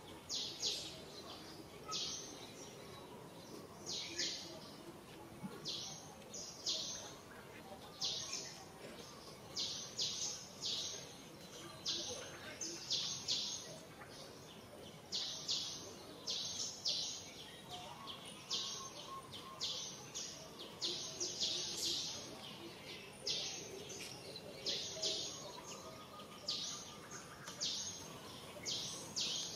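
A bird chirping over and over: short, high chirps every second or so, often in quick pairs or threes, over faint outdoor background noise.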